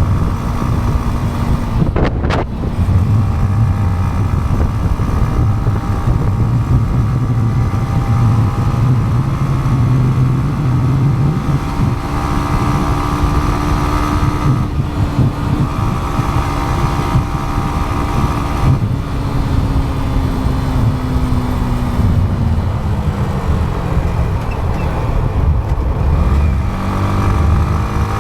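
Yamaha MT-15 motorcycle engine running at highway speed under heavy wind rumble on the helmet or action-camera mic. The engine note drops about two-thirds of the way through as the bike slows, then climbs again near the end as it accelerates. A brief sharp sound about two seconds in.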